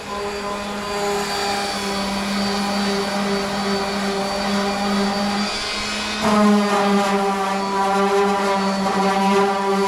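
Electric power tool motor running steadily, most likely sanding the old decals off the baler's painted steel. There is a short change in pitch and loudness about six seconds in.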